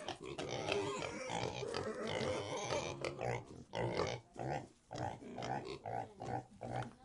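Pigs calling: a dense tangle of overlapping squeals and grunts, then from about three seconds in a run of short grunts at roughly two a second.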